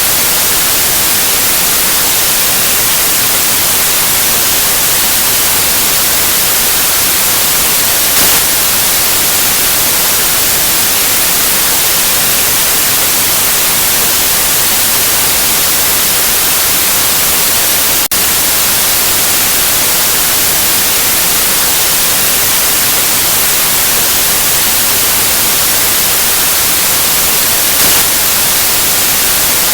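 White noise: a steady, loud, even hiss with more energy in the highs, with a faint tick about eighteen seconds in.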